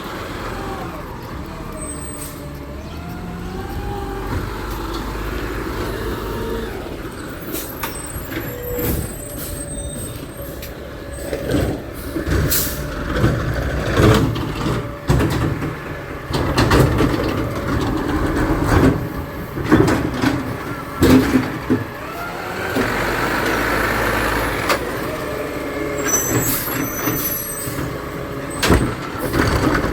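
Garbage truck engine running steadily, with repeated metallic clanks and bangs from its working gear through the middle and latter part.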